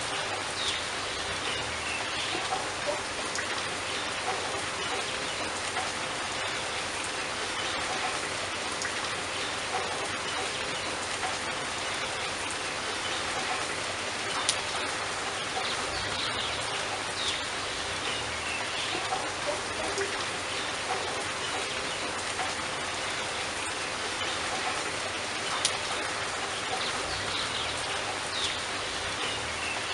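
Steady rain falling, with a few sharper individual drop ticks now and then.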